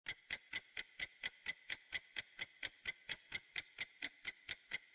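A clock ticking steadily, about four ticks a second: a ticking countdown-timer sound effect for a quiz.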